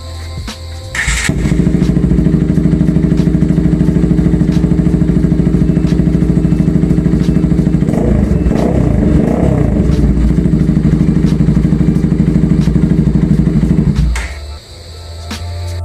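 Bajaj/Kawasaki RS200 single-cylinder engine running through an SC Project aftermarket silencer. It starts about a second in and runs at a steady, evenly pulsing idle, goes uneven for a couple of seconds in the middle, and stops about a second and a half before the end.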